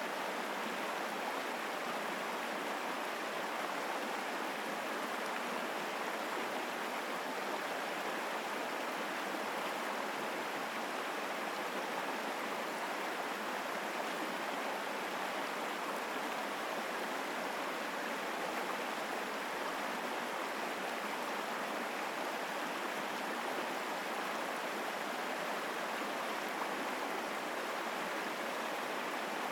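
Mountain stream flowing strongly over rocks: a steady, full rushing of water with no change in level.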